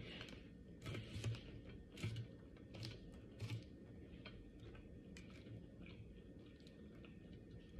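Close-up eating sounds: a person chewing, with irregular small clicks and taps. These are stronger in the first few seconds, then fainter.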